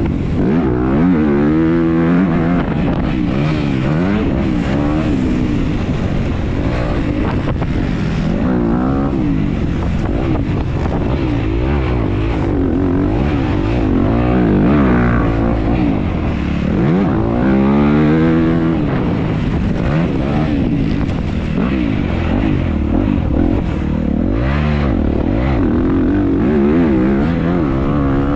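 Dirt bike engine heard from on board during a race, revving up and falling back again and again as the rider works the throttle through the gears.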